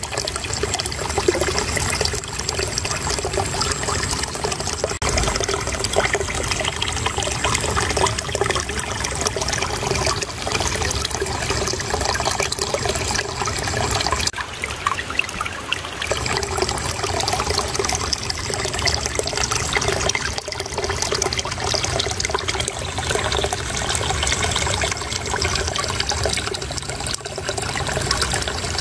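Shallow water trickling and babbling over stones, a steady gurgling flow.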